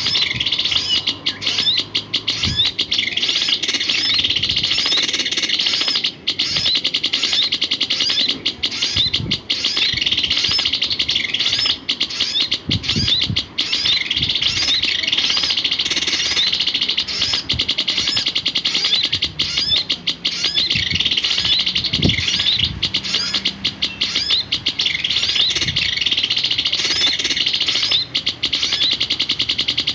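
A sirpu songbird singing a continuous, rapid run of high chirping notes, with a few soft low knocks now and then.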